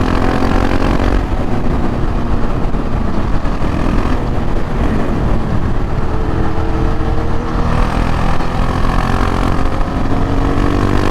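KTM 690 Duke R's single-cylinder engine accelerating hard through the gears. Its note climbs, then drops back at upshifts about a second in, at about four seconds and near eight seconds, over a steady low wind rumble.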